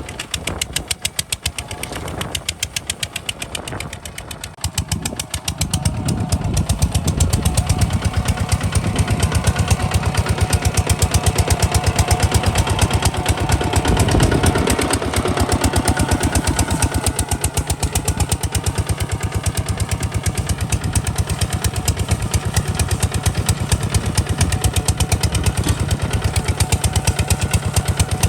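Kubota RT 140 DI single-cylinder diesel engine running with a rapid, even beat of firing strokes, getting louder about five seconds in and then holding steady.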